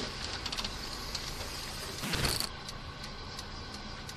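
Steady hum and hiss of a car's cabin noise from its engine and road, with a brief rustling clatter about two seconds in.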